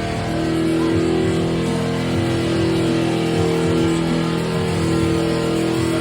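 A vehicle engine running at a steady pitch, with music underneath.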